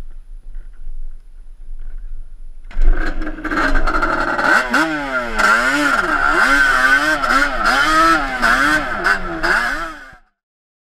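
Yamaha Banshee 350's twin-cylinder two-stroke engine, running through Toomey T5 expansion-chamber pipes, comes in loud about three seconds in and revs up and down repeatedly as the quad is ridden off. The sound stops abruptly near the end.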